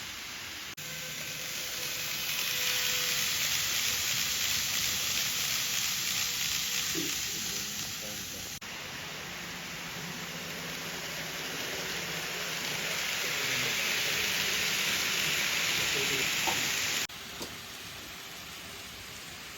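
N-gauge model trains running on the layout: a steady hissing rattle of small wheels on the track that swells twice as a train passes close, with abrupt changes where the footage cuts.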